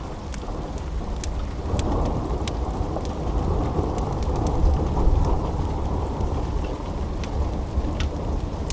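Steady rain with a long roll of thunder that swells about two seconds in, peaks midway and fades near the end. Scattered sharp ticks sound over it.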